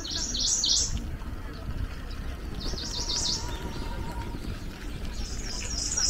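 A songbird singing three short, high phrases of quick, sharp repeated notes: one at the start, one midway and one near the end, over a low steady background rumble.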